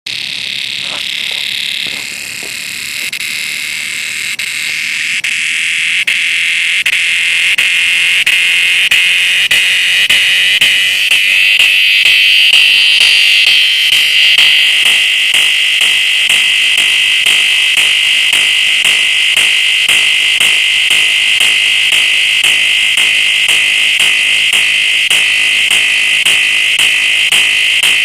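Cicada buzzing: a loud, shrill, steady drone that swells over the first ten or so seconds, then holds level with a fast pulsing running through it.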